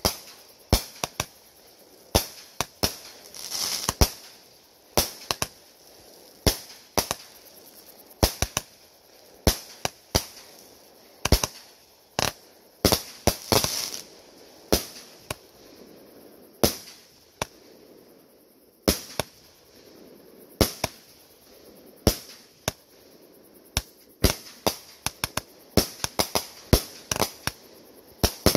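Aerial fireworks bursting overhead: an irregular, rapid series of sharp bangs, at times several a second, with spells of hissing crackle around four and fourteen seconds in.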